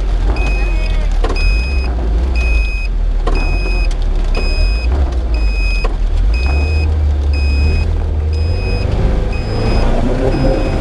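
Electronic beeping that repeats evenly, about one and a half beeps a second, over a steady low engine rumble.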